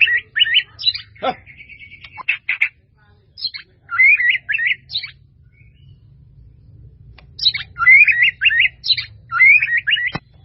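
White-rumped shama singing loud, quick, warbling phrases full of swooping notes, in bursts separated by short pauses with a longer pause in the middle.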